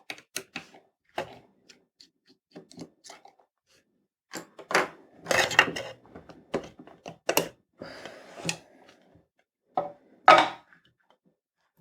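Plastic clicking, scraping and knocking as a Dyson hand-vacuum battery pack's plastic casing and its switch parts are pried apart by hand, with longer scrapes around the middle and a loud knock near the end.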